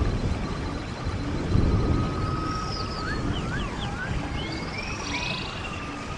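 Stream water running steadily with low gurgling surges, while several songbirds whistle and chirp over it from about two seconds in, in quick rising and falling notes.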